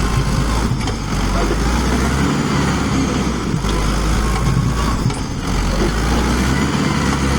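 Tractor's diesel engine running hard, its level swelling and dipping several times, as it strains to pull free of a muddy field where it is stuck.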